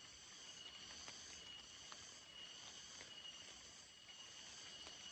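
Faint, steady insect chorus: several high, unbroken trills held at different pitches, with a few soft ticks.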